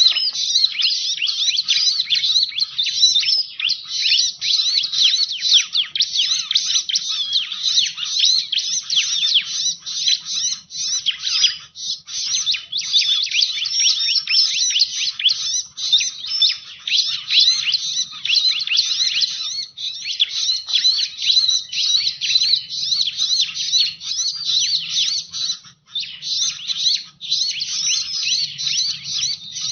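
Bar-winged prinia (ciblek) calling in a rapid, almost unbroken stream of high chirps, with brief pauses about twelve seconds in and again near the end.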